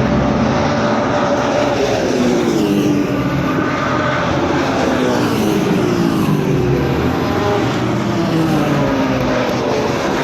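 Racing cars at full throttle passing by one after another, each engine note dropping in pitch as it goes past: about three clear falling sweeps, the first around two to three seconds in, another around the middle and another near the end, over a steady engine din.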